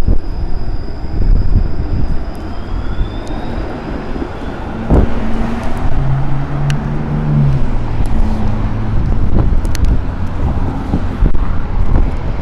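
Streetcar running, heard from inside the car: a steady low rumble with a short hum partway through.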